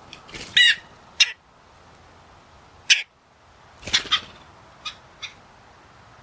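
Harsh bird calls: a wavering call within the first second, then short sharp calls spread out, with a loud one about three seconds in and a quick pair about a second later.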